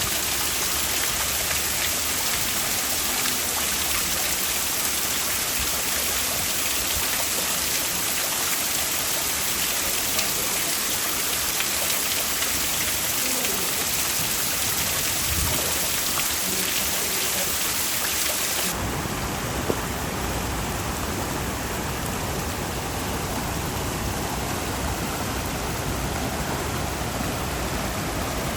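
Heavy rain pouring down steadily, a dense hiss of falling drops. About two-thirds of the way through, the sound changes abruptly to a duller, deeper rush.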